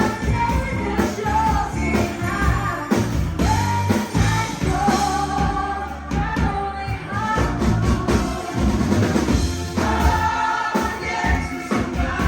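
A rock song: a singing voice over a band with drums and bass, playing steadily.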